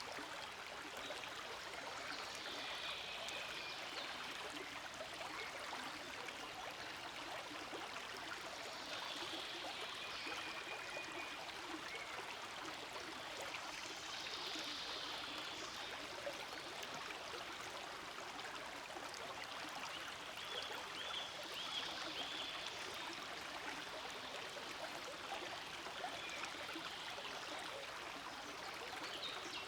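Forest creek flowing steadily, a continuous even rush of running water.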